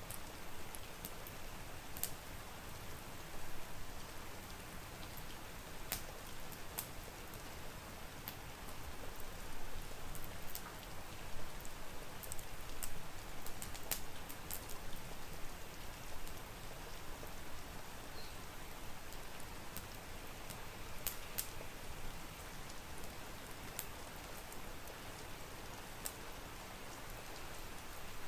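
Steady rain falling, with scattered sharp ticks here and there.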